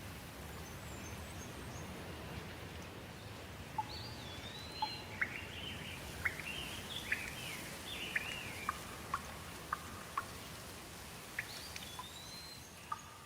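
Steady rain with a bird singing over it: whistled phrases that rise and fall, and a run of short sharp notes or drips about twice a second through the second half.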